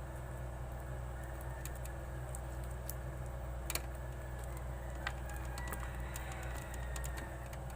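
Steady low hum with scattered small clicks and ticks, the sharpest click about four seconds in and another about a second later.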